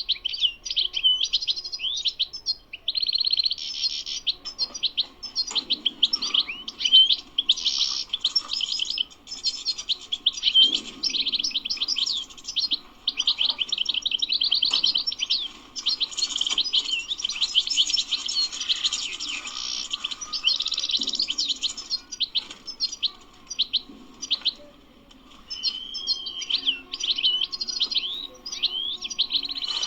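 European goldfinch singing: a fast, continuous twittering song of rapid chirps and trills, with a short pause about 25 seconds in.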